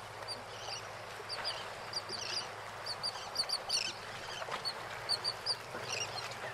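Birds chirping: many short, high calls, several a second, over a faint steady hiss.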